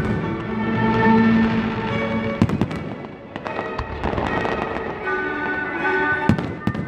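Fireworks display with shells bursting in sharp bangs and crackle: a cluster about two and a half seconds in and another near the end. Music plays throughout.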